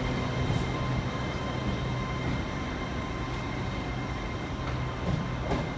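LNER Azuma high-speed train pulling out of the platform, a steady train hum with a few fixed tones over the rumble.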